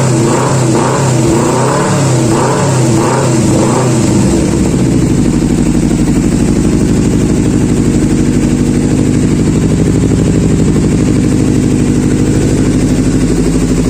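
Kawasaki Ninja 250 FI parallel-twin engine breathing through an aftermarket racing exhaust, blipped up and down in quick repeated revs for the first four seconds or so. It then settles into a steady, evenly pulsing idle.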